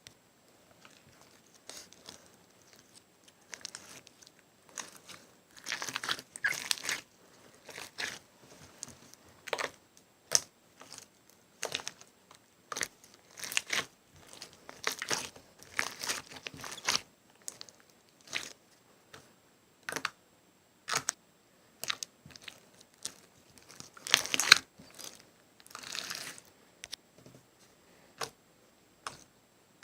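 Slime being squished and pressed by hand close to the microphone, giving irregular sticky crackles, pops and clicks, some in short clusters, the loudest about two-thirds of the way through.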